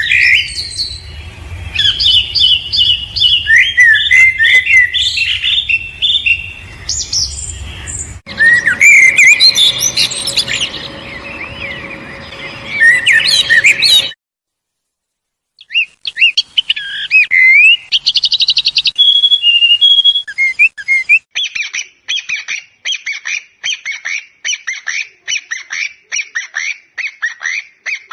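Songbirds singing and chirping in several short recordings joined one after another, with about a second and a half of silence near the middle. The last part is a run of quick, evenly repeated chirps.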